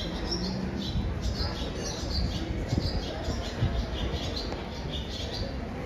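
Small birds chirping, many short high chirps repeating irregularly, over a steady low rumble.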